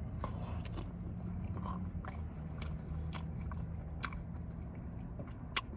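Close-up chewing of fries topped with nacho cheese sauce: soft, scattered mouth clicks and smacks at an irregular pace, with one sharper click near the end.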